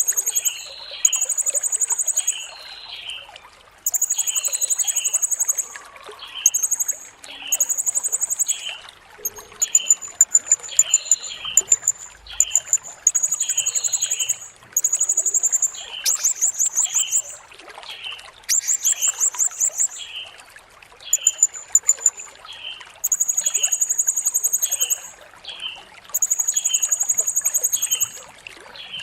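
Blue-crowned hanging parrot (serindit) calling: a run of very high, thin notes about a second long each, repeated with short gaps, some broken into rapid trills. A lower chirp repeats about twice a second underneath.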